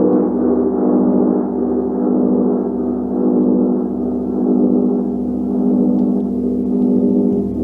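A gong ringing in a sustained, dense wash of low tones, played continuously so that it swells and ebbs about once a second rather than sounding as separate strikes. The upper overtones die away in the latter half.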